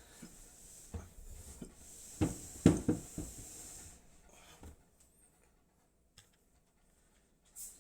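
A cluster of irregular knocks and clatter with a hiss from handling objects, loudest about two to three seconds in, then near quiet apart from a single click and a last knock near the end.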